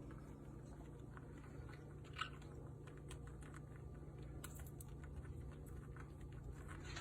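Faint irregular clicks and crunches of a parrot's beak working at a nut, with one sharper crack about two seconds in, over a low steady hum.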